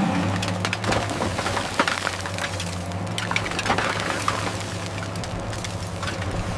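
A steady low machine hum with dense, irregular crackling and sharp cracks over it.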